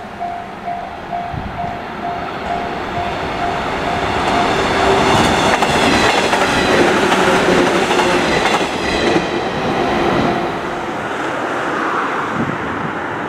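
A yellow 115 series electric train passing close by, with wheels clacking over the rail joints and the running noise loudest in the middle as the cars go past. A repeating pulsing tone sounds in the first few seconds. Near the end the noise is quieter, from a train approaching farther off.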